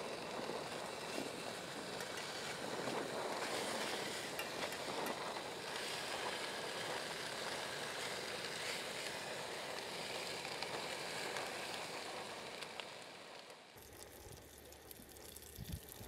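Slices of cured pork fat sizzling in a grill pan on a gas camping stove, a steady frying hiss that cuts off suddenly near the end, leaving a quieter hush.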